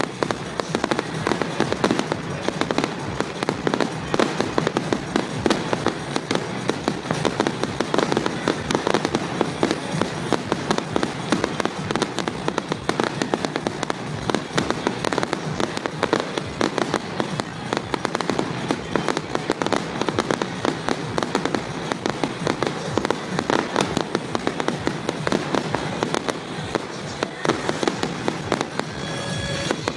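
Fireworks display: a dense, continuous barrage of many bangs and crackles, one shell after another with no pause.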